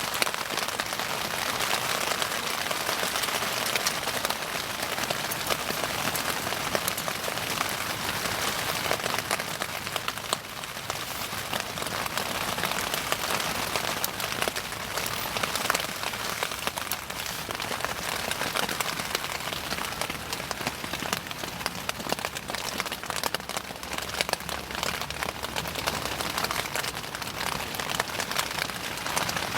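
Wood bonfire burning, crackling densely and steadily with many small pops.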